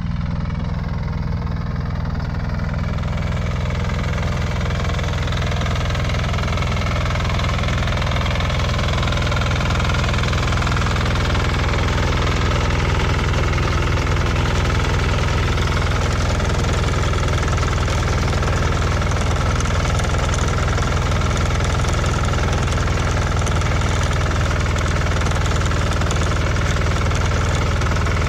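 Motor Sich walk-behind tractor engine running steadily while digging potatoes. It gets a little louder over the first several seconds, then holds.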